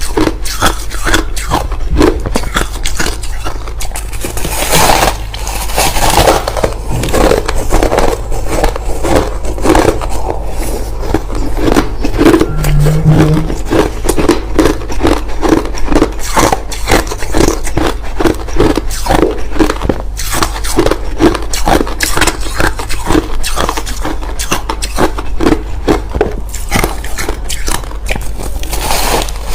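Crushed ice being bitten and chewed close to the microphone: an unbroken run of crisp crunches, several a second.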